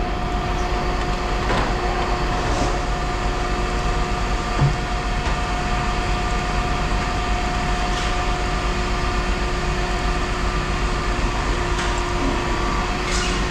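Steady machinery running with a constant hum, a few faint knocks and clanks over it.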